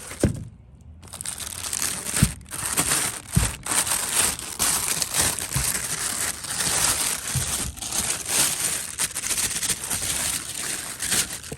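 Plastic packaging crinkling and rustling steadily as new tail lights are unwrapped by hand, with a few soft knocks.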